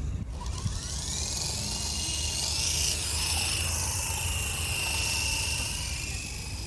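Small electric motor and rotor of a toy RC helicopter whining. The pitch rises over the first two seconds, then holds as a steady high whine.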